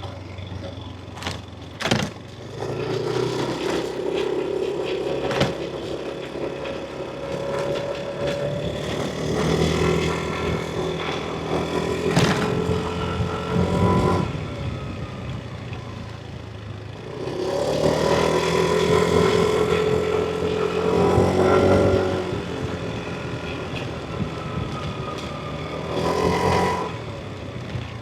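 Yamaha NMAX V3 scooter's 155 cc single-cylinder engine running under varying throttle, its pitch rising as it accelerates about two seconds in, again past the middle and near the end, and easing off in between, with road and wind noise. A couple of sharp knocks come through early on and near the middle.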